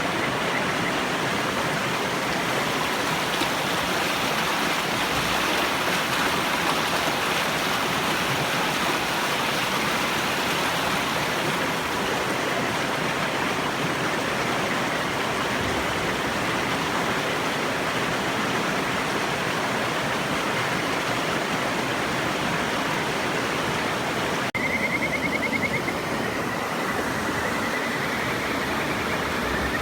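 River water rushing steadily. Near the end, after a sudden break, a Kajika frog gives trilling whistled calls, one rising in pitch.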